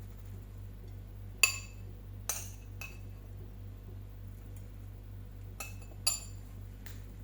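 Glass or ceramic tableware clinking: about six light knocks, each with a short ringing tone, the loudest about one and a half seconds in and another about six seconds in. A steady low hum lies underneath.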